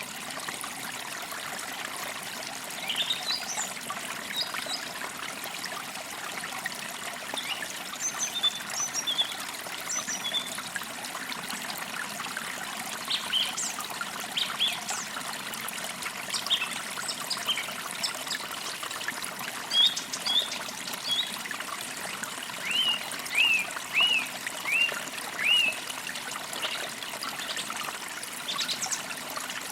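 Small forest creek trickling steadily, with birds chirping over it in short high notes. About three-quarters of the way through, one bird gives a run of five similar notes.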